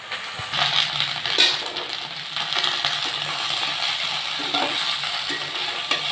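Cut okra frying in oil in an aluminium kadai, sizzling steadily, while a spatula stirs it, scraping and clinking against the pan a few times.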